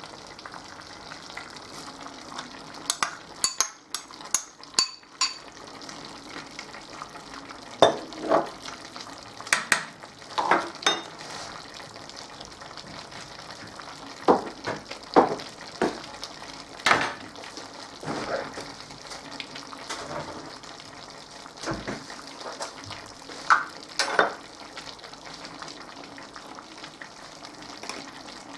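Food frying in a pan with a steady sizzle, while a utensil clinks and scrapes against the pan every few seconds as the food is stirred.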